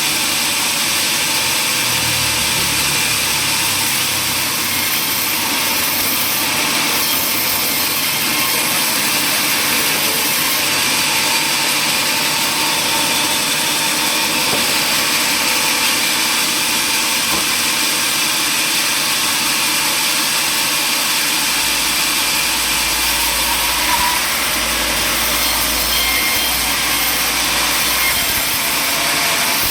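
Power saw running and cutting wood: a steady, loud noise, mostly high in pitch, without a break.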